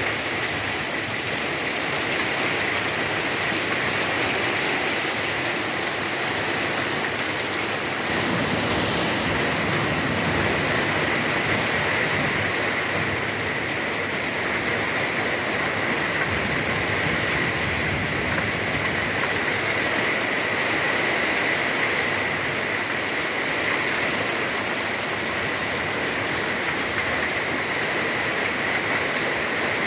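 Heavy rain pouring down steadily, an even hiss of falling water without a break, with a faint steady high-pitched tone running underneath.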